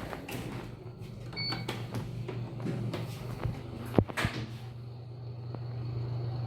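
Elevator cab sounds: clattering knocks of the doors and cab, a very short beep about a second and a half in, and a sharp click about four seconds in, followed by a steady low hum with a faint high whine.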